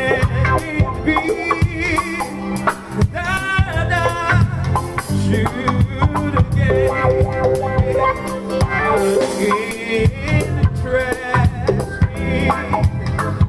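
Live church praise band playing an up-tempo song: drum kit, bass guitar, electric guitar and keyboard, with voices singing over it and busy percussion throughout.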